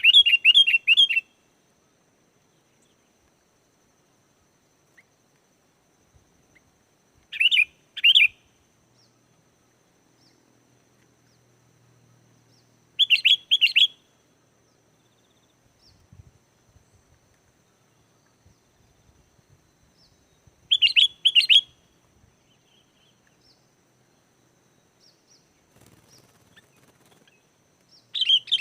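Sooty-headed bulbul calling: short, bubbly phrases of three or four quick notes, each about a second long, repeated about every seven seconds with quiet gaps between.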